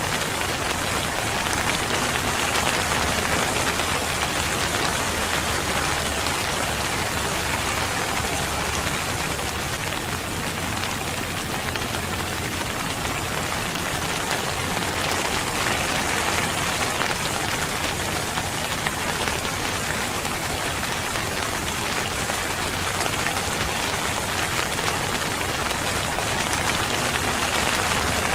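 Steady rain falling and pattering on surfaces, an even hiss that neither builds nor fades.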